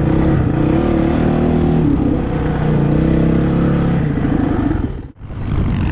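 Off-road motorcycle engine running under throttle, its pitch rising and falling as the rider works the throttle. The sound drops out briefly about five seconds in, then resumes.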